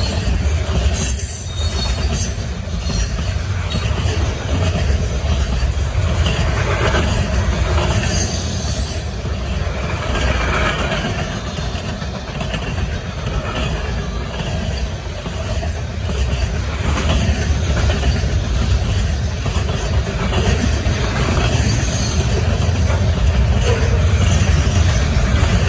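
Freight cars rolling past at speed: a steady low rumble of steel wheels on rail, with repeated clatter as the wheelsets pass.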